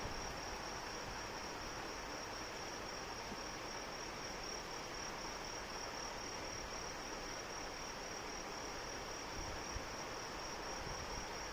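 Crickets trilling in a steady, fast-pulsing high chirr over the even hiss of steady rain.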